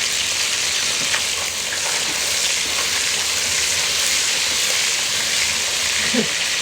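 Food sizzling in a frying pan: a steady, even hiss of hot oil.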